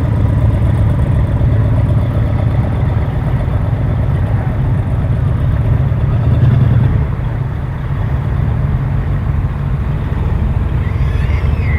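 Car engine running with a deep, low rumble as it passes, easing off about seven seconds in; another engine's rumble comes in near the end.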